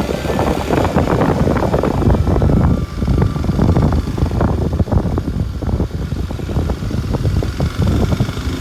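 Kawasaki Super Sherpa's single-cylinder four-stroke engine running as the motorcycle is ridden along, loud and steady, with a brief drop in level about three seconds in.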